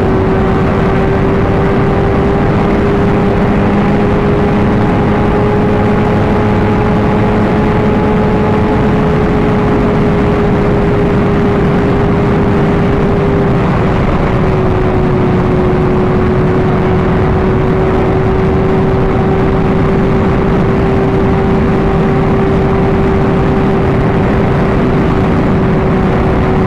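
Sport motorcycle engine running at a steady highway cruise, one even engine tone that dips slightly about halfway through, under heavy wind rush on the helmet camera microphone.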